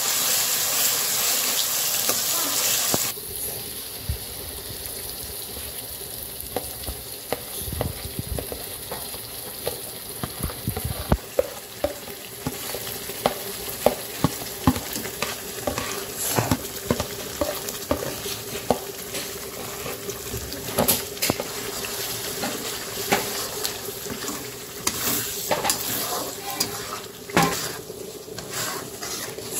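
A pale paste sizzling hard in hot oil in a wok for the first three seconds, then frying more quietly while a steel spoon stirs and scrapes, clicking often against the pan. About eleven seconds in, a thick masala paste goes in and is stirred and scraped around the pan.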